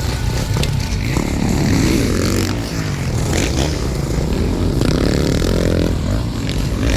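Motocross bikes racing on the track, their engines revving up and falling back again and again as the riders work the throttle.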